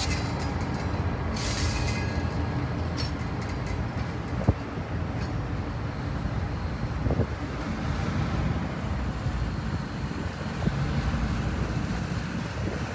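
Railcars rolling slowly past on steel rails, a steady low rumble from the wheels with a few sharp clicks. The railcars are heritage passenger cars followed by a double-stack container car.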